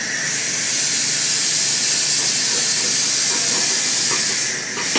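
Loud steady hiss of air being released as the Moose 2 hand truck's keg lift is brought down, starting and cutting off abruptly after about five seconds.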